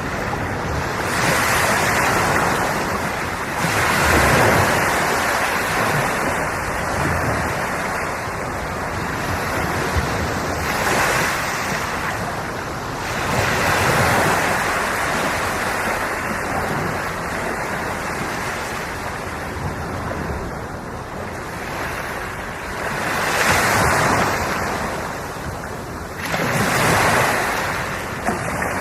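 Sea waves breaking and washing in, a steady surf sound that swells in slow surges every few seconds.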